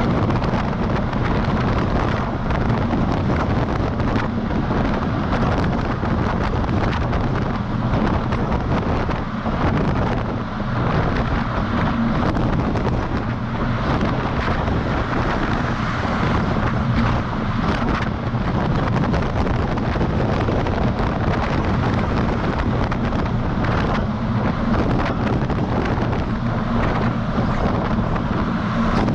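Semi-truck driving at speed, heard from outside the cab: steady engine drone and road noise with wind rushing over the microphone.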